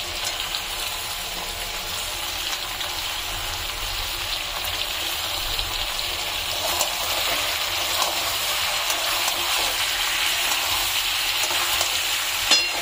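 Chicken pieces and onions sizzling in hot oil in a metal kadai as chopped tomatoes are added and stirred in with a metal spatula, with small scrapes and one sharp metallic clank of the spatula against the pan near the end.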